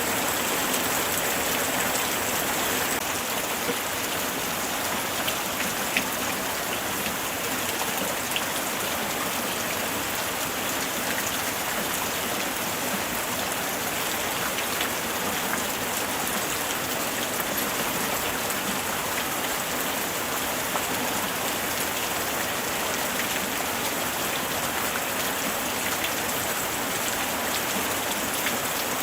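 Light rain falling steadily: an even hiss with scattered individual drops ticking.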